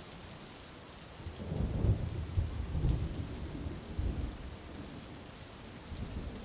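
Heavy rain falling steadily, with a low rumble of thunder that rolls in about a second in, is loudest over the next couple of seconds and fades away, followed by a smaller rumble near the end.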